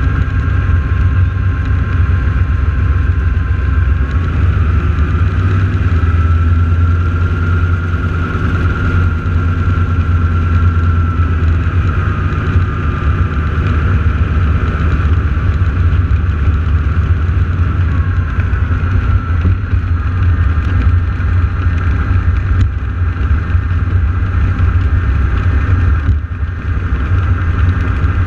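North American T-6 Texan radial engines idling on the ground before takeoff. They make a steady, loud low rumble, with a faint whine above it that shifts pitch now and then.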